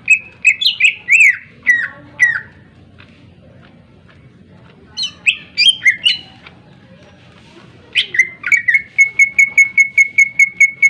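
Greater green leafbird (cucak ijo) singing loud, sharp whistled phrases in three bursts. The last burst ends in a rapid run of repeated chips, about five a second.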